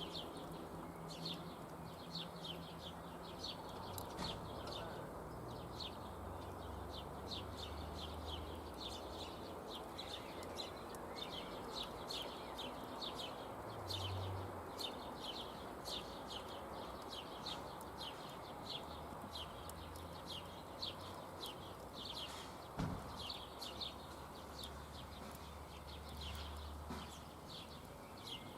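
Small birds chirping in quick, repeated short notes over a steady outdoor background hum, with a couple of sharp clicks.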